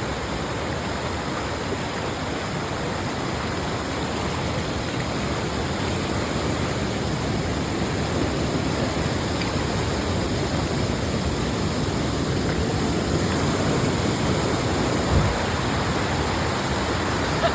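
Steady rush of falling water from a waterfall, growing a little louder about halfway through.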